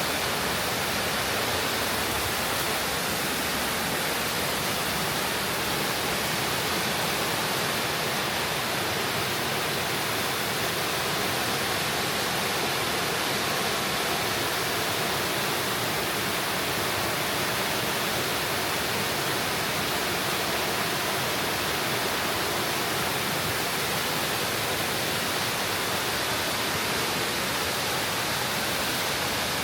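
Steady rush of water falling and flowing in a mountain gorge, a waterfall's even roar with no change in level.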